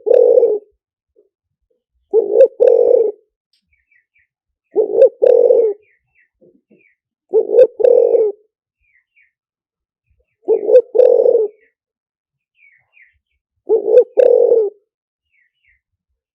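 Spotted dove cooing, a two-part coo phrase repeated every two and a half to three seconds, the kind of call recording played to lure wild doves. Faint high chirps of small birds between the phrases.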